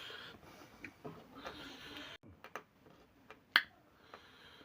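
Eating sounds close to the microphone: chewing, then a few sharp mouth clicks, the loudest about three and a half seconds in.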